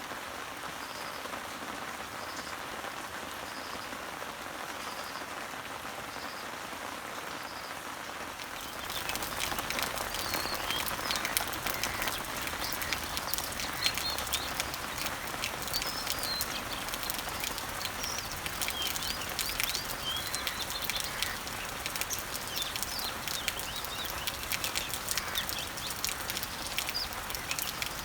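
Rain falling on leaves and trees as a steady hiss, with a faint high bird note repeating about once a second. About eight or nine seconds in it grows louder, with dense pattering drops and several birds chirping.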